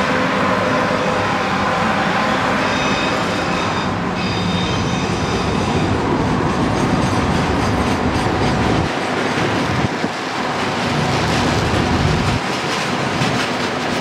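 Freight train rolling past on a curve, a long string of container wagons clattering over the rails with the wheels clicking, and a brief high steady squeal about three seconds in.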